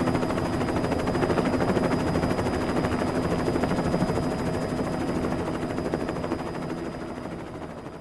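Helicopter sound effect: a steady rotor-blade chop with a thin high whine, fading out over the last few seconds.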